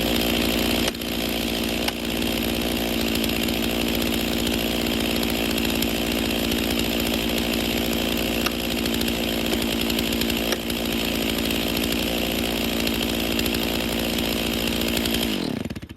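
Stihl two-stroke chainsaw running at a steady engine speed, with two brief dips about one and two seconds in. Near the end its pitch drops as it winds down, and it stops.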